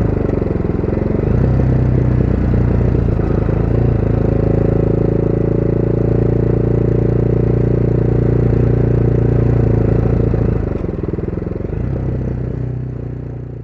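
Motorcycle engine running steadily while riding, with wind and road noise. The engine note breaks briefly about a second in and again near the end, as in a gear change or easing off the throttle, and the sound fades out at the very end.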